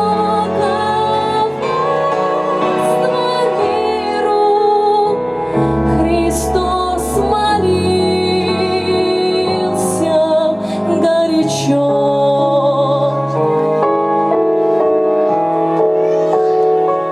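A woman singing a song with vibrato over sustained instrumental accompaniment.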